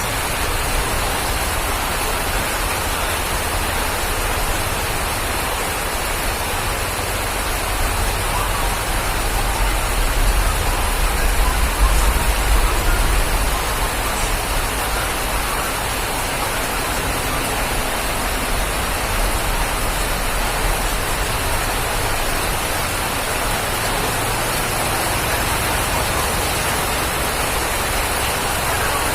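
Steady, even rain falling, with a low rumble underneath that swells a little about ten seconds in.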